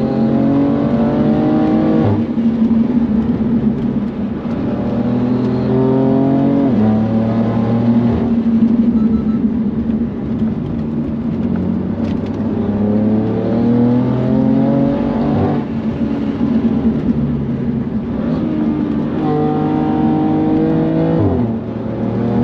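BMW F80 M3's twin-turbo straight-six engine heard from on board at track pace, its note climbing as the car accelerates and dropping sharply at gear changes, four times.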